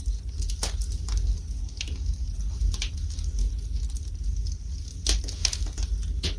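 Wood fire burning in a fireplace: irregular sharp crackles and pops over a steady low rumble, with a quick cluster of pops about five seconds in.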